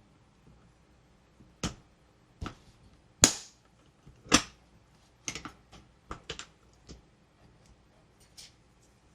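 A series of sharp clicks and taps from toys and packaging being handled: a few single clicks, the loudest about three and four seconds in, then a quick cluster of lighter ones.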